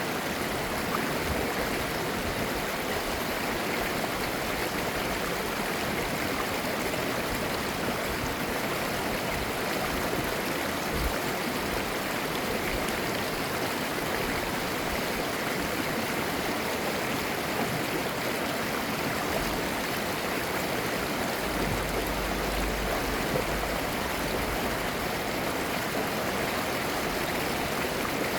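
A mountain valley stream running steadily over rocks, its clear water babbling.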